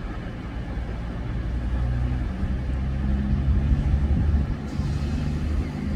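Diesel passenger train's engines running with a low rumble and a steady engine drone, growing louder about two seconds in and strongest around the middle.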